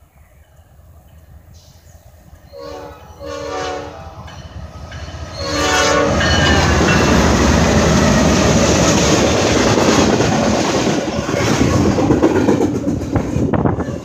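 Norfolk Southern freight train sounding its locomotive horn in three blasts as it approaches a grade crossing. About six seconds in, the diesel locomotives pass close by with a loud rumble, and near the end the wheels of the double-stack container cars clatter over the rails.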